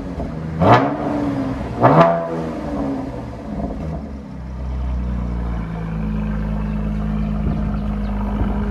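Chevy Camaro RS 3.6L V6 through a Borla ATAK axle-back exhaust, blipped twice in quick revs about a second and a half apart, then dropping back to a steady idle.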